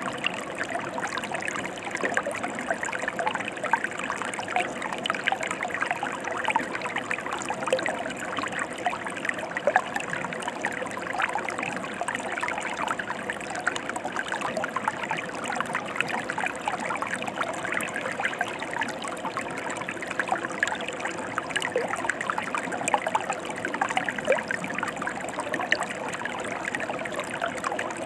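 Mountain stream flowing steadily, a continuous babble of water with many small splashes.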